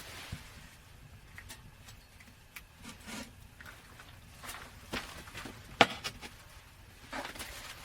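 Irregular knocks, clicks and rustling, like objects being handled or someone stepping about, with one sharp knock a little before six seconds in.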